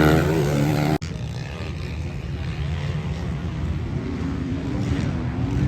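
Motocross bike engines running, a steady engine tone that breaks off sharply about a second in, then a rumbling, noisier engine drone.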